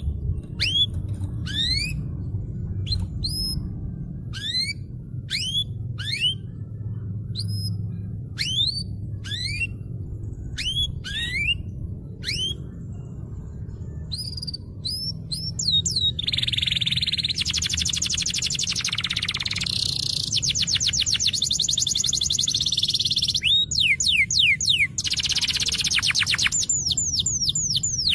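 Domestic canary singing: first a string of separate upward-sweeping whistled notes, then about halfway through a long run of fast, dense trills, then rising whistles again near the end. A steady low hum runs underneath.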